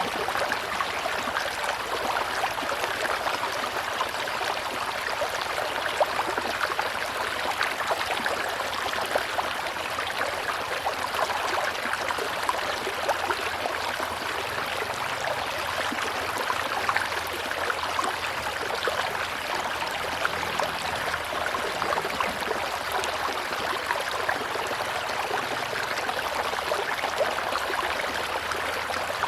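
River water rushing and babbling over rocks, a steady splashing flow.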